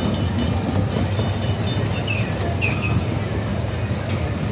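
Ride-on amusement-park railway train running along its track: a steady low rumble, with a quick run of clicks in about the first second.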